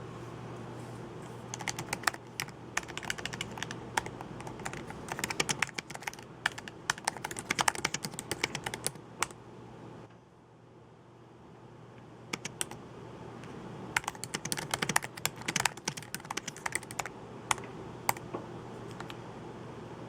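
Typing on a computer keyboard in fast runs of keystrokes, with a break of about two seconds halfway through, over a faint steady low hum.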